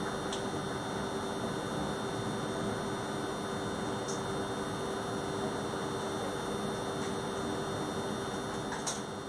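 Steady running noise inside a moving TER regional train carriage, with a constant low hum. A few faint clicks come through, about half a second in, around four seconds in and near the end.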